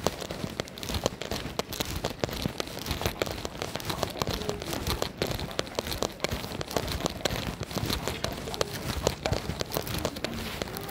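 Rain pattering close by in dense, irregular ticks, with footsteps on wet, slushy pavement.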